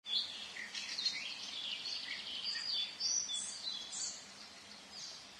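Birds chirping and singing, several short calls and trills overlapping one another, a little quieter near the end.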